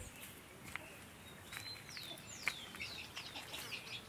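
A small bird chirping: a quick run of high, falling whistles starting about one and a half seconds in, with a few sharp clicks, the loudest about halfway through.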